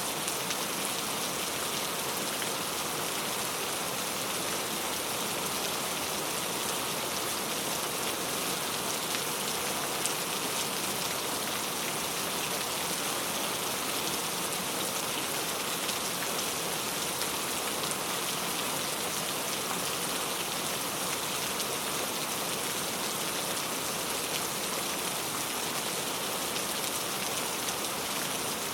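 Very heavy rain falling steadily, a dense even hiss of countless drops hitting a surface.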